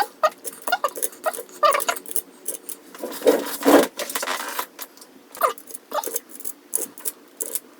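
Clicking, rattling and scraping of small plastic and metal parts as a Commodore 64 keyboard is worked on by hand to get at the broken key plunger. There is a louder rustling scrape about three to four seconds in.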